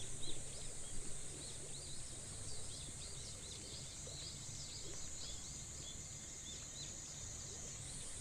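Summer insects giving a continuous high-pitched buzz, with many short high chirps scattered over it.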